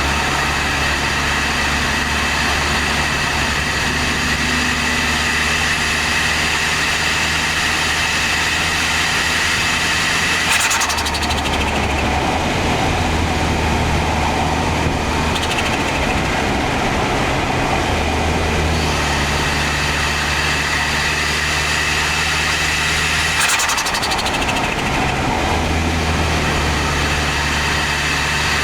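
Toyota Starlet Glanza V's turbocharged 1.3-litre four-cylinder engine running under way, with a rapid fluttering chatter from the turbo twice, about 11 and 23 seconds in, as the throttle is lifted and the engine note drops.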